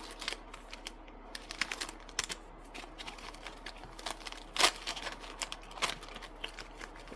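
Trading-card booster packs and their cardboard box being handled: irregular light clicks, taps and crinkles, with one sharper click about four and a half seconds in.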